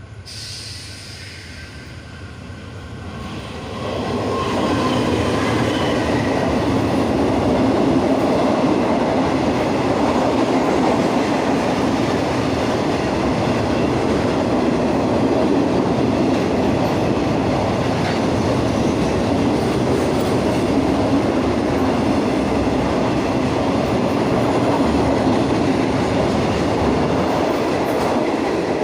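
A train passing close by on Thai railway track. It grows louder over the first four seconds, then the cars roll past as a loud, steady rumble of wheels on rail.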